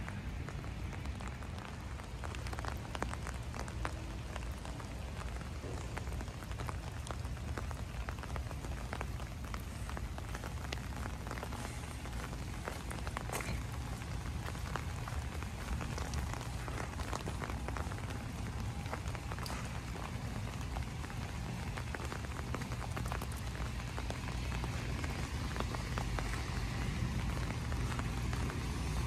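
Steady rain, with many small raindrop ticks scattered through it over a low steady rumble.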